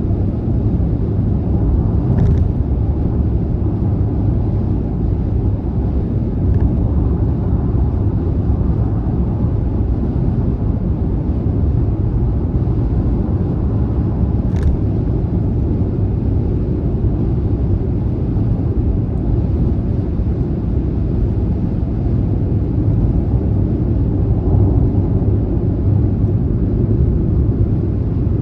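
Steady low rumble of a car cruising on a motorway: tyre and road noise with the engine underneath, even in level throughout, with a faint tick a couple of seconds in and another about halfway.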